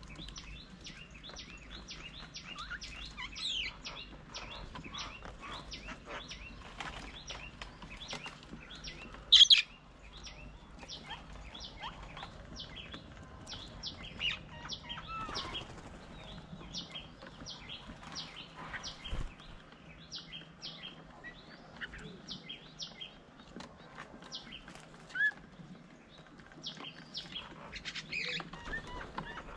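Wild birds chirping and calling around a bird table: many short, quick chirps throughout, with one much louder call about nine seconds in.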